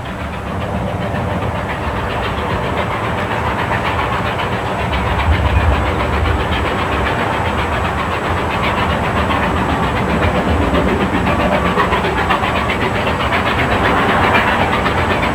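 Narrow-gauge steam train running along the track, a steady mechanical clatter and rumble that grows gradually louder.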